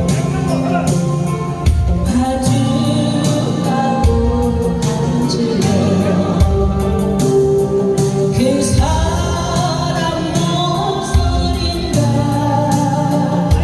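A singer singing a slow Korean ballad over an amplified instrumental backing track, holding long notes.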